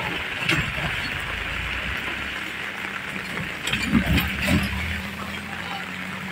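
Heavy rain falling as a steady hiss, with a pickup truck driving past on the wet road in the first couple of seconds. A few knocks sound about four seconds in.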